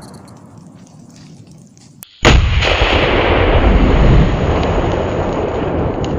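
A buried gas cylinder, heated by a fire until the pressure bursts it, explodes about two seconds in: a sharp crack, then a very loud blast with a heavy low rumble that slowly dies away.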